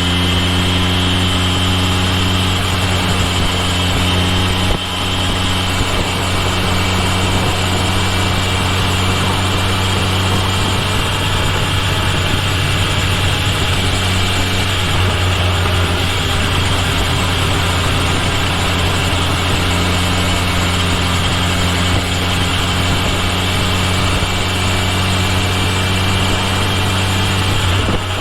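Kawasaki Ninja H2 SX's supercharged inline-four engine running at a steady, even pitch, with a brief dip in level about five seconds in, over a haze of wind and road noise.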